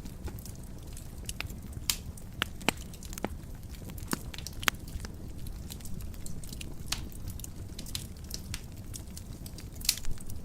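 Wood fire burning in a fireplace: a steady low rumble with irregular sharp crackles and pops, a few louder snaps among them.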